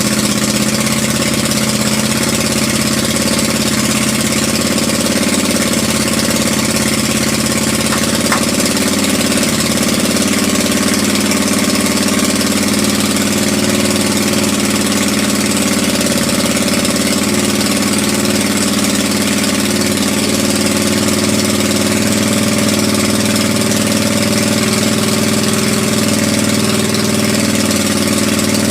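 Motorcycle engine with twin carburettors idling steadily on its first start-up after a rebuild.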